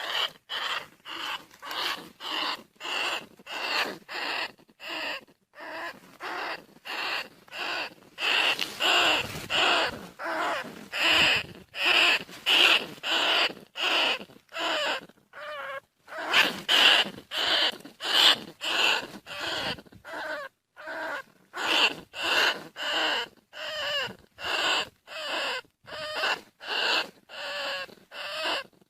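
Bandicoot rat squeaking in short, even calls about one and a half times a second, repeated over and over like a looped call recording.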